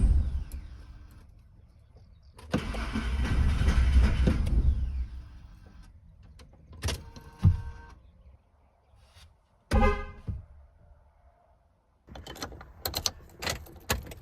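Ford F-150 pickup engine being cranked and briefly running twice, fading out and dying each time, as the owner tries to restart it after it stalled roughly; a few clicks and knocks follow.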